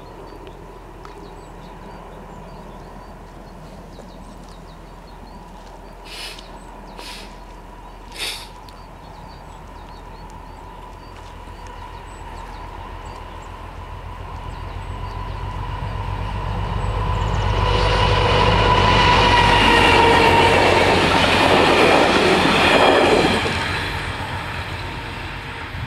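Passenger train approaching and passing the level crossing: it grows louder from about halfway through, is loudest for several seconds, then falls away near the end, over a steady single-tone warning signal from the crossing. Three short sharp noises come about six to eight seconds in.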